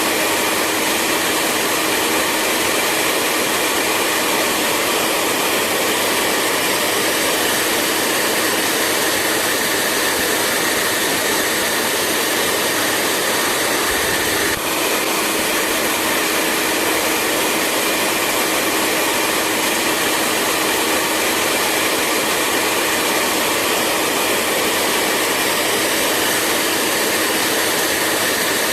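Hair dryer running steadily: a continuous rush of blown air with a faint steady whine, with one brief dip about halfway through.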